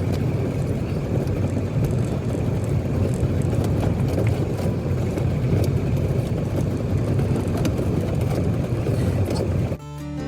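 A 2001 Ford E-350 van's Power Stroke diesel engine running steadily with a low hum and rough road rumble from driving a dirt track. Near the end it cuts off suddenly and acoustic guitar music begins.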